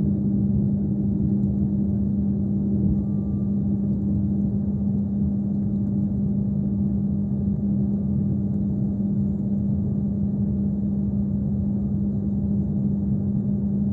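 Steady cabin drone inside an airliner: a constant low hum with one strong steady tone and a faint higher whine.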